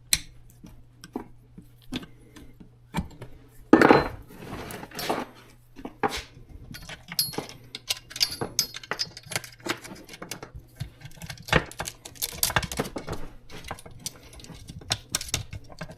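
Metal clicking and rattling of a saw chain being handled and fitted onto a chainsaw's guide bar and sprocket, with scattered sharp clicks and a few louder clatters.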